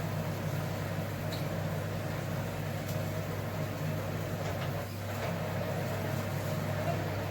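Steady low mechanical hum, like a running kitchen appliance or fan, holding an even level throughout.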